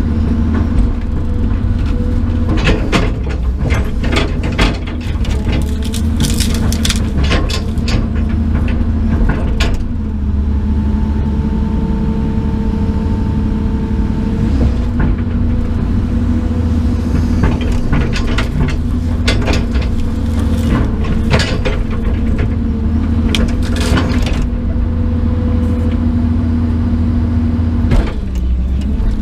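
Large brush-pile bonfire burning with a low steady rumble and frequent sharp crackles and pops from the wood. A steady machine-like hum runs underneath, shifting pitch slightly a few times.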